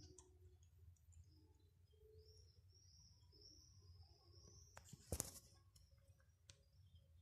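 Near-quiet courtyard with small birds chirping over and over. About five seconds in, a short sharp clatter: the tin can knocking on the concrete as a cat nudges it while licking it out.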